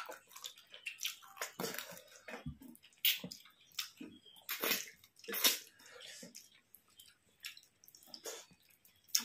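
Close-up eating sounds: short, irregular wet squelches and smacks of rice and fish curry being mixed and eaten by hand, with chewing. They grow sparser in the second half.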